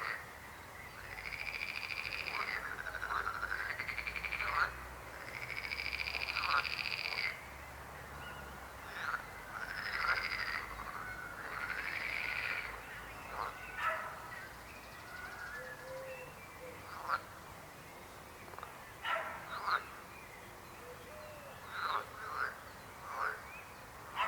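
Frogs croaking in a chorus: several long, pulsed croaks of about two seconds each in the first half, then shorter, sharper single calls.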